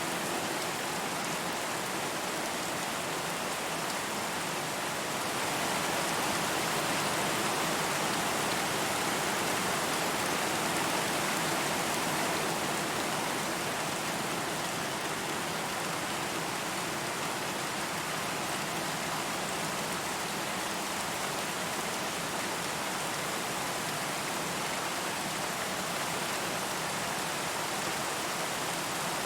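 Steady rain falling, a dense even hiss of many drops with no distinct individual hits, swelling slightly in strength for a few seconds about a quarter of the way in.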